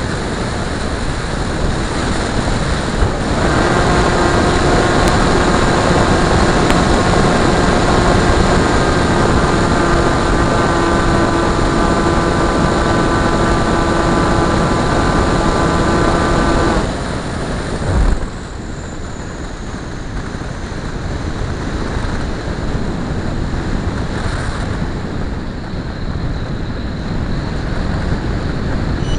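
Motor and propeller of a Multiplex Blizzard radio-controlled model plane, holding a steady pitch from a few seconds in and cutting off after about seventeen seconds, over wind noise on the microphone. A short thump comes a second later, then only wind.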